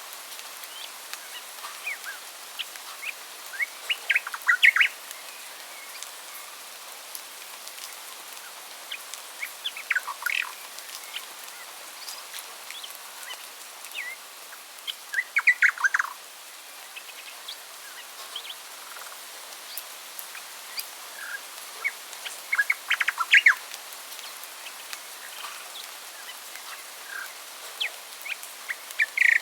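Birds chirping in short, rapid bursts of sharp notes every few seconds, over a steady background hiss.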